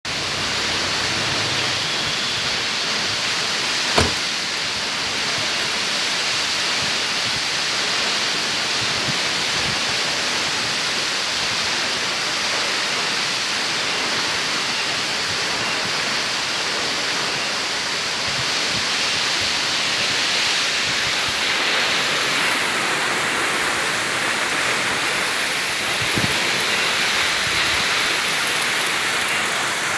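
Steady rush of a waterfall's falling water, with one sharp click about four seconds in.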